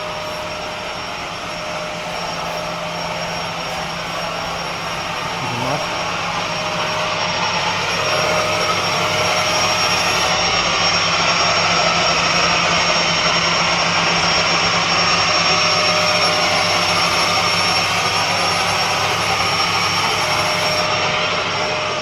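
Steady mechanical whir of factory machinery, with a constant high whine and a low hum, growing louder about eight seconds in and then holding.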